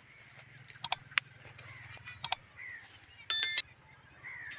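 Crane calls: faint calling throughout, then one loud, short trumpeting call about three seconds in. A few sharp clicks come in the first half.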